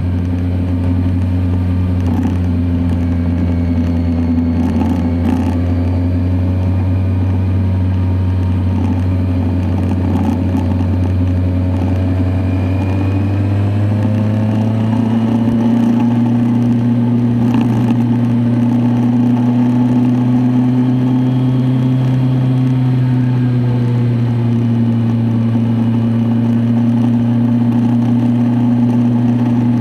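Kawasaki Z1000SX inline-four engine running steadily under way. Its pitch steps up about halfway through and then holds higher.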